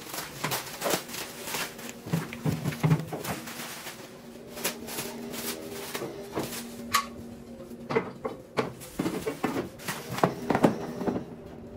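Irregular clicks, knocks and light rattles of parts being handled, over a faint steady low hum.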